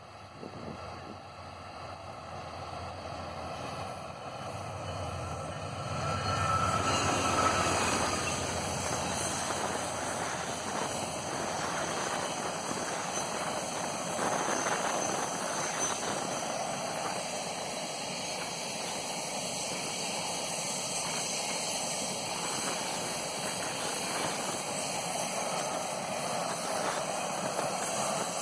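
Passenger train passing close by: the diesel locomotive's engine grows louder as it approaches and is loudest about seven seconds in. After it come the passenger coaches, their wheels running steadily over the rails.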